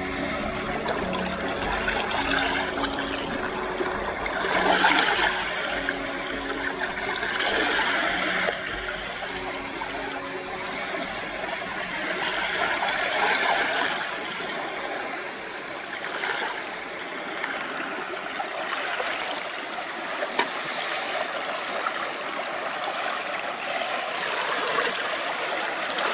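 Small sea waves washing against the shore, a steady wash that swells every few seconds.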